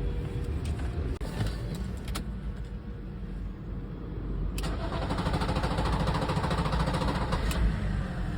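BMW M57 straight-six diesel cranking on the starter, then catching about four and a half seconds in and running with a steady diesel clatter. The engine now starts after cranking, where before it cranked without starting.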